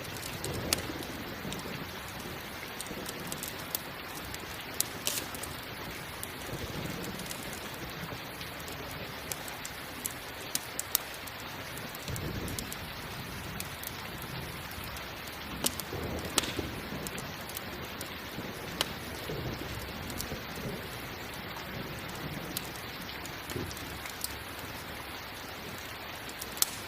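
Steady rain hissing, with sharp, irregular crackles and pops from a campfire burning. A few soft low rumbles come and go, around a third and two-thirds of the way through.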